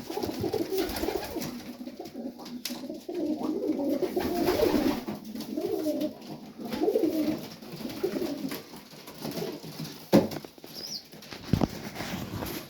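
Domestic pigeons cooing in a loft, several birds' low wavering coos overlapping, with a couple of sharp knocks near the end.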